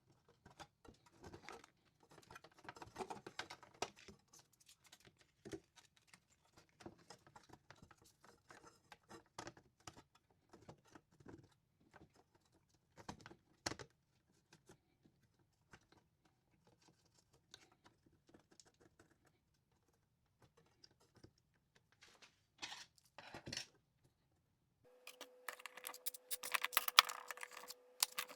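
Small clicks, taps and rustles of circuit boards, screws and wires being handled and fitted into a UPS power-supply chassis. About 25 seconds in, the sound changes to denser clicking over a faint steady hum.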